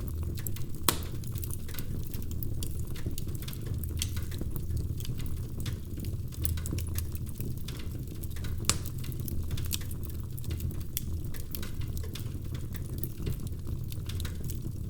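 Wood fire burning in a fireplace, crackling: frequent sharp pops and snaps over a steady low rumble of the flames, with two louder pops about a second in and just before the ninth second.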